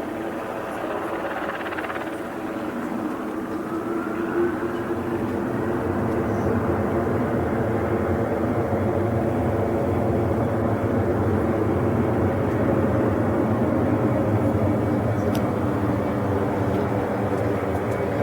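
Airliner engines running on the ground: a steady hum of several tones with a whine rising in pitch about three seconds in, growing louder from about six seconds in and then holding steady.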